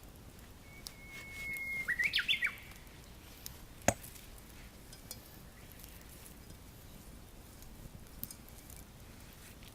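A bird singing: one held whistle, then a quick run of up-and-down notes. About four seconds in comes a single sharp click, the loudest sound, with faint scattered ticks around it.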